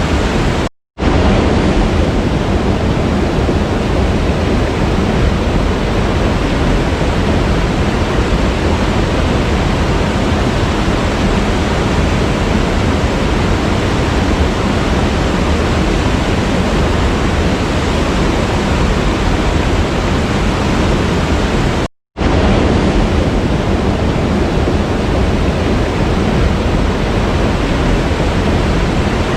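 Waterfall rushing steadily, a dense even roar of falling water. It cuts out to silence for a moment twice, about a second in and again about 22 seconds in.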